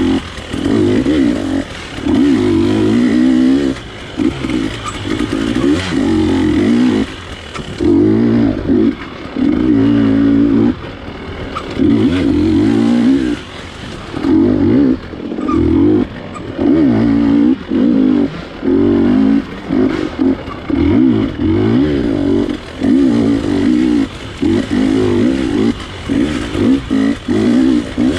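GasGas dirt bike engine revving in repeated surges, the throttle opened and closed every second or two, each burst rising in pitch and then cutting back.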